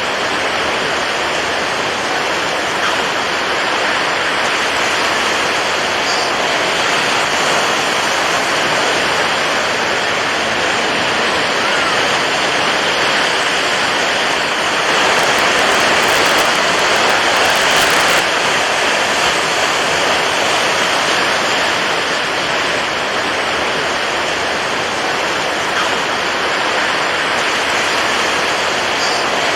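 Water waves washing in a steady, continuous rush, swelling a little about halfway through.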